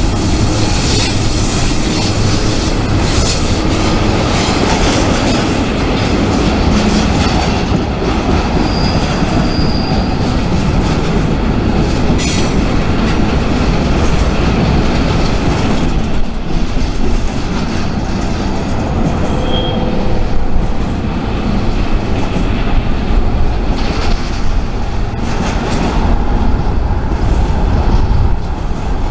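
Freight train rolling past, its cars clattering over the rails with a steady rumble and a couple of short, high wheel squeals.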